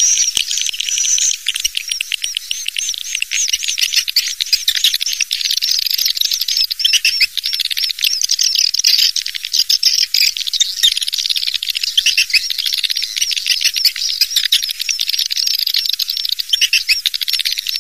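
Recorded swiftlet calls played as a lure sound: many swiftlets chittering and twittering in fast, dense, overlapping calls, thin and high with no low end.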